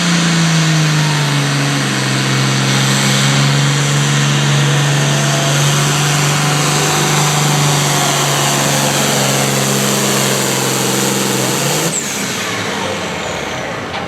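Pulling truck or tractor engine held at full throttle under load through a pull. The note sags a little at first, then holds steady, and cuts off about twelve seconds in as the throttle is shut at the end of the run.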